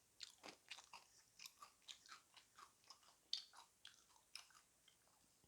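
Faint, close-up chewing and biting of food, irregular crisp crunches and wet mouth clicks, with one louder crunch a little past three seconds in.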